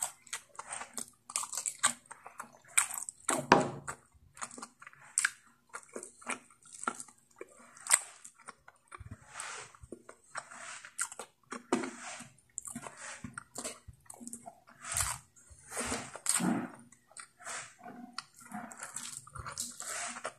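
Close-miked chewing and wet mouth smacks of someone eating spicy pork curry with rice by hand, in many short irregular clicks and smacks. The loudest is a fuller bite or gulp about three and a half seconds in.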